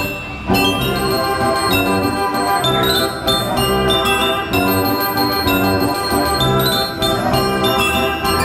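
A 1918 Wurlitzer Style 157 carousel band organ playing a lively tune, its pipe melody backed by ringing glockenspiel bells. A short lull at the very start, then the tune carries on.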